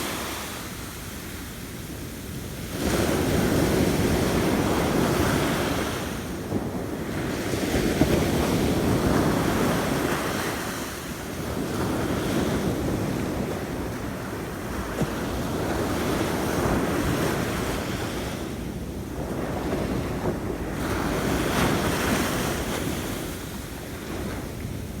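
Sea waves breaking and washing up the shore, surging and drawing back every few seconds.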